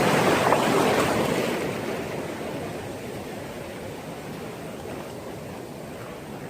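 Sea surf washing onto the shore, louder for the first two seconds and then easing to a steady hiss.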